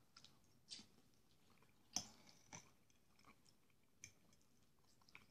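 Faint close-up chewing of a mouthful of soft wheat porridge, with a few short sharp clicks, the loudest about two seconds in.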